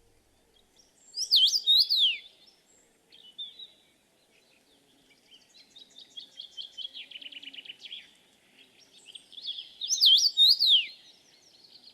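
Songbird singing loud, sharply slurred whistled notes about a second in and again near the end, with a softer, fast trill of repeated notes in between.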